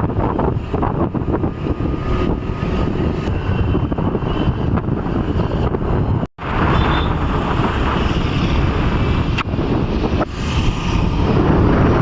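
Wind rushing over the microphone and road noise of a moving vehicle during a ride, a dense steady roar that drops out for an instant about six seconds in.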